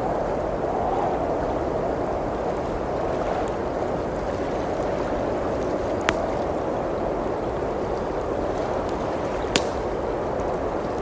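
Steady rush of blizzard wind, with two sharp pops from a crackling wood fire, about six seconds in and again near the end.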